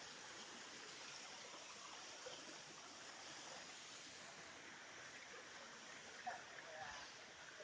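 Faint, steady rushing of a forest stream.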